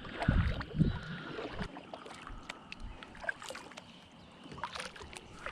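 Small fishing boat on the water: a few low thumps in the first second, then scattered light clicks and knocks.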